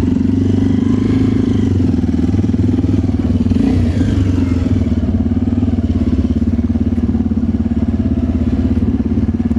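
Motorcycle engine running steadily, its pitch wavering briefly about four seconds in.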